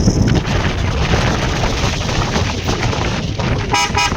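Wind buffeting the microphone over the noise of a moving vehicle. Near the end a vehicle horn toots in about three quick pulses.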